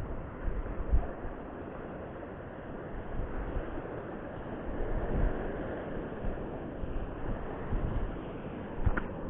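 Sea waves breaking and surf washing on the shore, swelling and easing, with wind gusting on the microphone.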